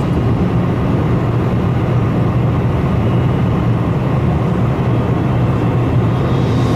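Steady rumble of jet engines and airflow heard inside an airliner cabin, even and unbroken.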